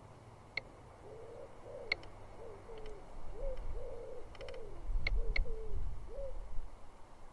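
A wild pigeon or dove cooing nearby, a series of low, soft, arched coos in short repeated phrases. A few short, sharp high chirps from another bird come in between, and there is a low rumble near the end.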